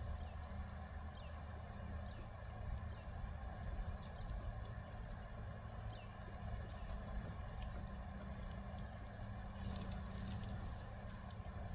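A few faint, short bird chirps, each a quick downward slip, scattered through the first half over a steady low rumble, with a cluster of sharp clicks about ten seconds in.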